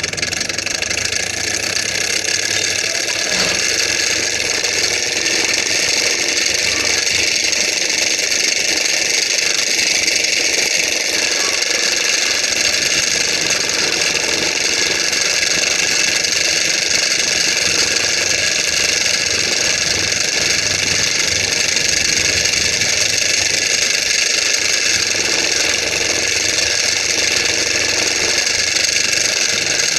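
Fire-heated Stirling engine running at a steady speed, a continuous, even mechanical sound.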